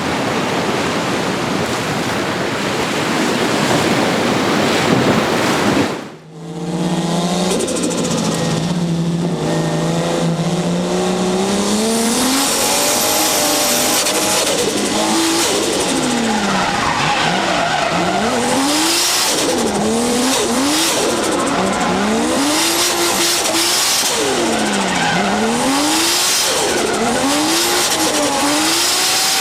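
Turbocharged Toyota 1JZ straight-six with a Trust T67-25G turbo, drifting. The engine note holds steady, then dips and climbs again and again as the throttle is worked, with tyre squeal. It opens with a loud steady rush that breaks off suddenly about six seconds in.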